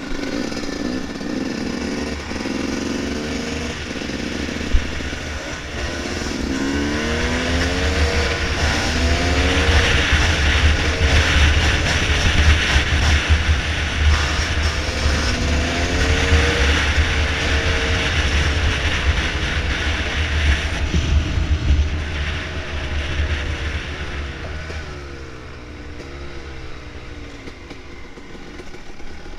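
Dirt bike engine under way on a trail, its pitch rising and falling over and over as the throttle is opened and closed. It grows louder through the middle and eases off near the end, over a steady low rumble.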